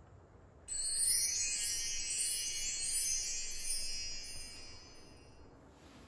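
A sparkling chime jingle added in editing: high, bell-like notes in repeated rising runs, starting suddenly about a second in and fading away over the next few seconds.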